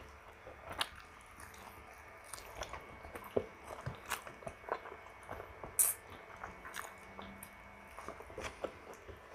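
Close-miked chewing of saucy pork ribs: faint, scattered wet mouth clicks and smacks, with a sharper click about six seconds in.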